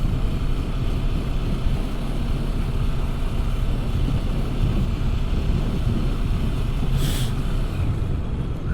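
Motorcycle running steadily on the road, heard from the rider's position: a low engine drone mixed with wind noise, with one brief click about seven seconds in.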